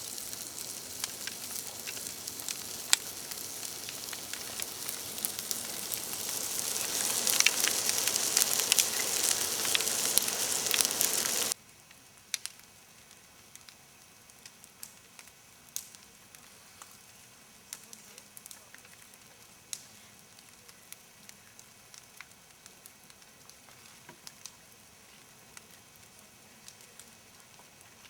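Campfire crackling and hissing, the hiss growing louder until about eleven seconds in, where it drops off suddenly; after that the fire is much quieter, with scattered sharp pops.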